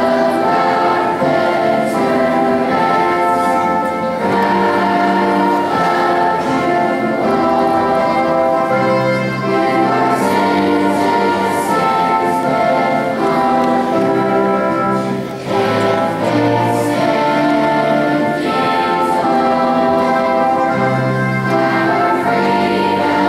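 A choir singing a slow piece with orchestral accompaniment, in long held chords, with a brief drop in level about fifteen seconds in.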